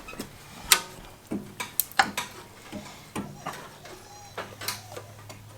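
Metal tools clinking and knocking on the engine of a 1948 Farmall Cub during teardown: irregular sharp clanks and clicks, the loudest about a second in and again near two seconds.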